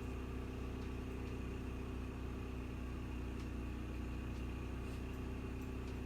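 Steady hum of a microwave oven heating water, with the Champion 3400 inverter generator's engine running outside under the microwave's load.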